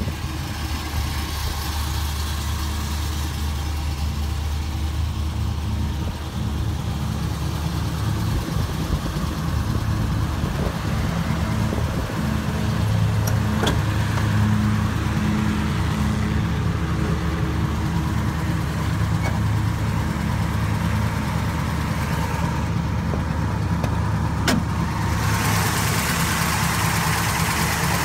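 Small-block Chevrolet V8 with a factory Duntov 30-30 mechanical camshaft, idling steadily. It sounds brighter and closer near the end, heard at the open engine bay.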